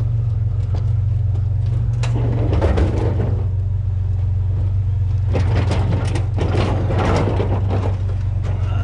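A vehicle engine idles with a steady low hum. Over it come irregular bursts of clattering and rattling, once about two seconds in and again midway through, as a broken metal barbecue grill is handled.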